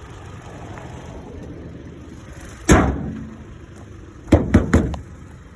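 The hood of a 2020 Toyota Corolla LE slams shut about halfway through, with a short ringing decay, followed by three quick sharp knocks near the end.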